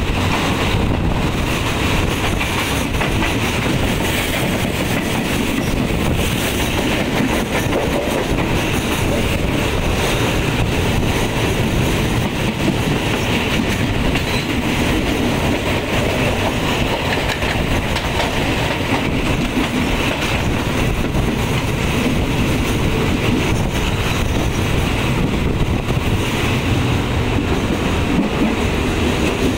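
Thai SRT commuter train in motion, heard from inside a passenger carriage with an open window or door: steady rumble and rattle of the wheels running on the rails.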